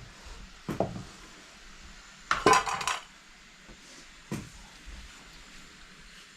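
Metal cookware and utensils knocking and clinking: a knock a little under a second in, a longer metallic clatter with a ringing note about two and a half seconds in, and a single light knock past four seconds.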